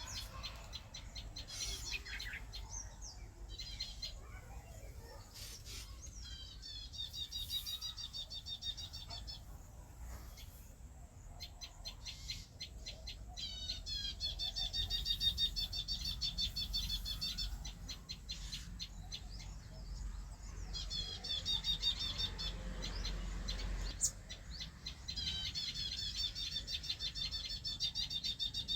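Birds singing: runs of fast, repeated chirping trills, each lasting two to four seconds, coming back four times with short gaps and scattered clicks between.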